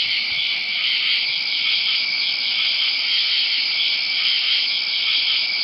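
Cricket chirring: a continuous high-pitched trill that holds steady and cuts off suddenly at the end.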